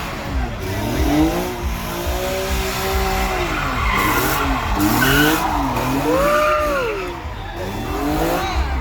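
Car engine revving hard in repeated climbs, holds and drops while its tyres squeal and skid in a smoky burnout.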